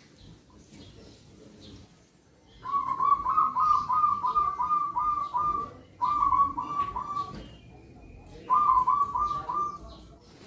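Zebra dove (perkutut) singing: three phrases of quick, soft cooing notes at about four a second, a long phrase a little over two seconds in, then two shorter ones.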